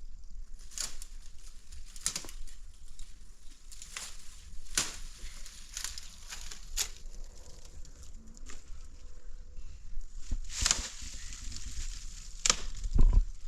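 A series of short, sharp crunching or rustling strikes, irregular, roughly one every one to two seconds, with a louder thump near the end.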